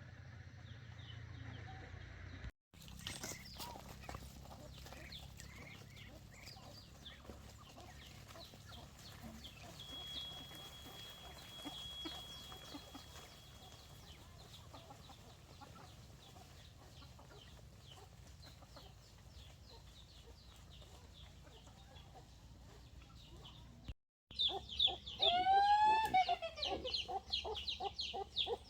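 Chickens clucking and squawking loudly in a burst of repeated rising-and-falling calls over the last few seconds. Before that comes a long, faint stretch of outdoor background with scattered light clicks and a thin high tone lasting a few seconds.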